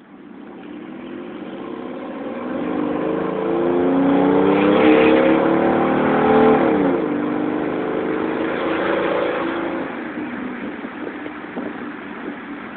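1997 Ford F-150's 4.2-litre V6 running through a cat-deleted exhaust with a Flowmaster 40 muffler, the exhaust note growing louder over the first few seconds. Its pitch drops sharply about seven seconds in, then it fades.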